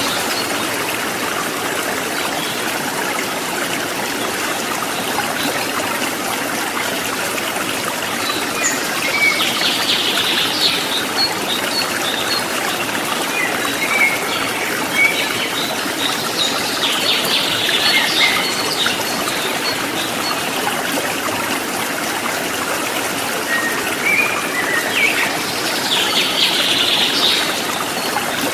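Stream water trickling and splashing steadily, with bird chirping that comes in three short spells.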